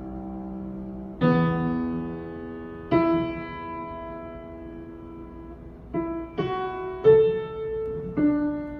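Piano played by hand, a slow melody of struck chords and notes left to ring out: a chord dies away at first, then six strikes follow, with a pause between the second and third. The piano sounds in tune.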